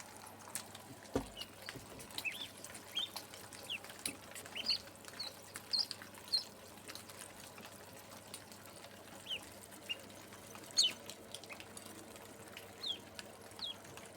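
Small birds chirping: short high peeps, some rising and some falling, come at irregular intervals over a faint steady hiss. A single low thump sounds about a second in.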